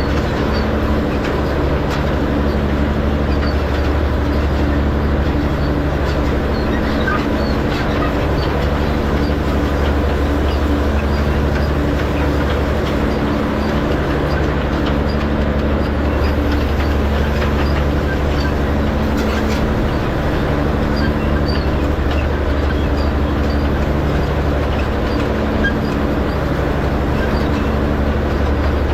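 Farm tractor engine running steadily as it pulls a hay rake through windrows. The engine note swells and fades slowly every couple of seconds, with light scattered clatter over the steady hum.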